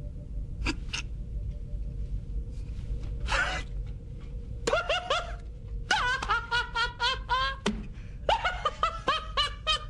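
A man laughing in quick, rhythmic runs of short 'ha' bursts, starting about halfway through and repeating three times, over a low steady hum.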